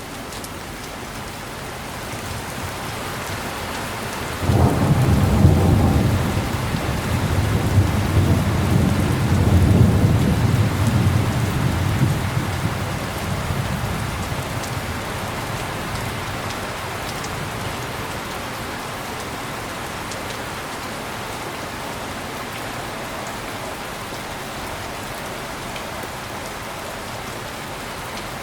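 Heavy rain falling steadily, with a clap of thunder about four and a half seconds in that rolls on as a low rumble, swells again, and dies away over roughly ten seconds.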